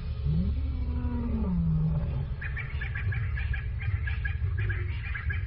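A lion's drawn-out growl that rises in pitch, holds, then falls away over about two seconds. After it comes a rapid run of short, high chirping notes.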